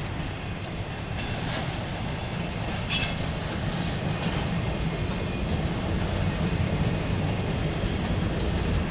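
CSX intermodal freight train's cars rolling past with a steady low rumble, with a few brief high-pitched wheel squeals in the first half.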